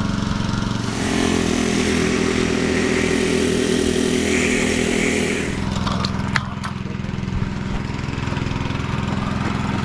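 Petrol engine of a concrete power trowel ('helicopter') running steadily. It grows louder, with a hiss over it, from about one second in to about five and a half seconds, then drops back. A few sharp clicks come around six seconds in.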